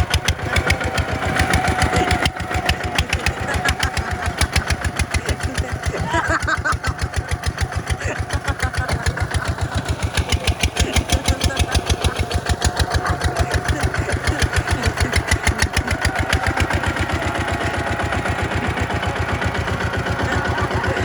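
Tractor diesel engine running steadily under load, its firing pulses coming in a fast, even rhythm.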